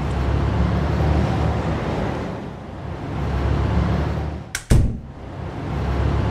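Car engine sound effect running and swelling as vehicles drive by, dipping and rising again. Two sharp clicks come about four and a half seconds in.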